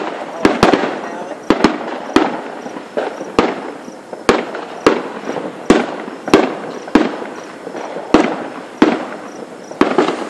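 Aerial fireworks exploding in quick, irregular succession, about one or two sharp bangs a second, each trailing into an echoing rumble.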